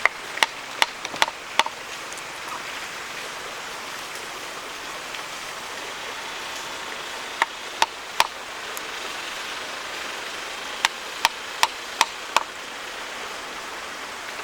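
Sharp knocks of a hand tool striking wood, in three quick runs of five, three and five blows, about two and a half a second, over a steady background hiss.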